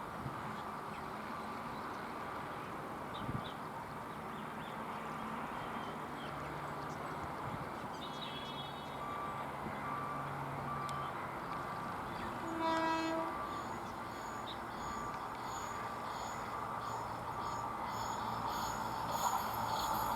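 Indian Railways express train approaching with a steady rumble that grows louder toward the end, and one short blast of the locomotive's horn about two-thirds of the way through.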